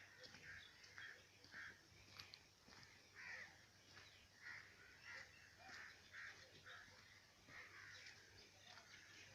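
Faint bird calls: short calls repeating about once or twice a second.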